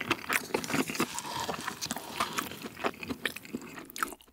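Close-miked chewing of a mouthful of gimbap soaked in tteokbokki sauce: a quick, dense run of wet, sticky mouth clicks and smacks that stops shortly before the end.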